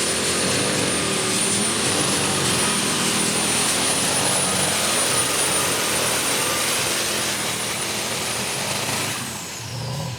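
Alcohol-burning super stock pulling tractor running flat out down the track, a loud engine roar with a high steady turbocharger whine. About nine seconds in the throttle comes off, and the whine winds down as the engine drops off.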